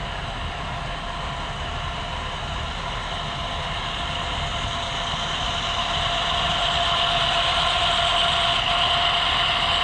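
HO scale model train running on the layout, with a steady whine, growing louder about halfway through as it comes closer.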